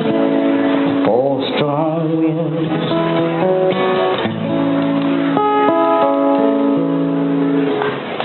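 Live folk-country music: strummed acoustic guitar carrying sustained chords, with a male voice briefly singing a wavering held note about a second in.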